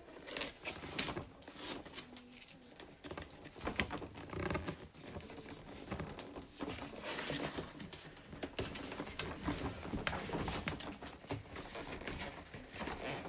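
Cardboard box and packaging being handled and opened: irregular rustling, scraping and tapping.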